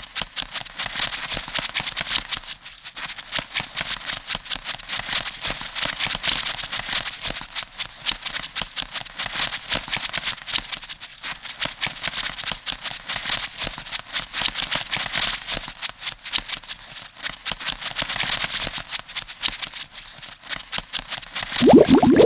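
Crab sound effect: a dense, rapid clicking rattle, like a shaken maraca. Near the end it gives way to a lower bubbling sound.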